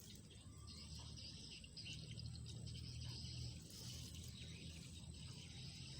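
Insects chirping in a high, buzzing band that comes in long stretches, over a low rumble.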